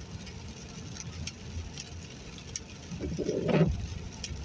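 Car cabin noise while driving on a wet road: a steady low rumble of engine and tyres with scattered light ticks. About three seconds in there is a brief, louder low sound.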